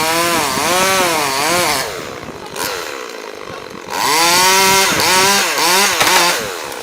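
Two-stroke chainsaw running hard in two spells, its engine pitch repeatedly rising and dipping as it is throttled and loaded. There is a quieter lull between the spells.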